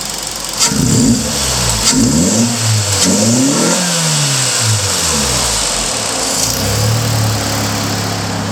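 Suzuki Swift Sport (ZC32S) M16A 1.6-litre four-cylinder engine revved in several quick throttle blips from idle, its pitch rising and falling, then held briefly at a steady higher speed before settling back to idle.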